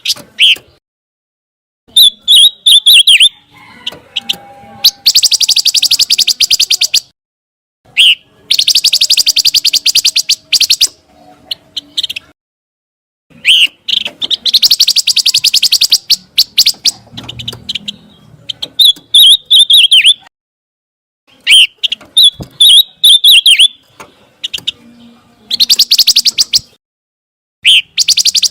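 Song of the bird known in Indonesian bird-keeping as pancawarna, played from a recording: loud bursts of rapid, high chirping and fast trills lasting a second or two each, separated by short pauses.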